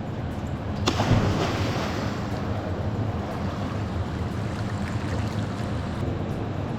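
Steady rushing noise of water moving and splashing around swimmers, mixed with wind on the microphone, with one sharp knock about a second in.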